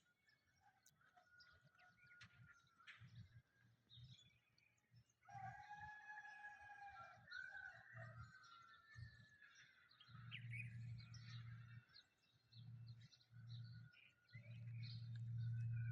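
Faint early-morning birdsong: several birds chirping and calling, with one longer call about five seconds in. A low hum comes and goes underneath and swells near the end.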